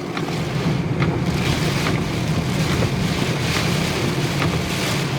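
Heavy rain on a car driving through flood water, heard inside the cabin, with the windshield wipers on high speed making a short stroke about once a second over a steady wash of rain and water noise and a low drone.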